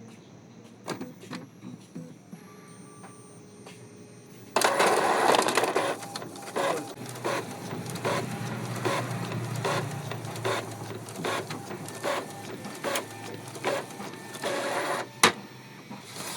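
Epson L-series inkjet printer mechanism running: a few faint clicks, then a sudden loud burst of motor and carriage noise, followed by steady running with regular clicks about three every two seconds. A single sharp click comes near the end.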